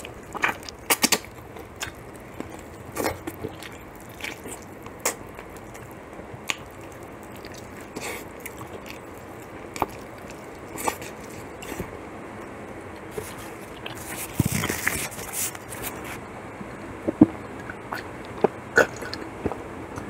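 Close-up eating of gravy-dipped spicy fried chicken and rice: biting and chewing, with scattered sharp crunches and wet mouth clicks.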